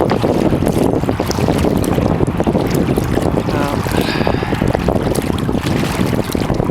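Wind buffeting the microphone during a kayak paddle, a steady rumble with small scattered splashes and knocks. A brief pitched sound rises out of it about four seconds in.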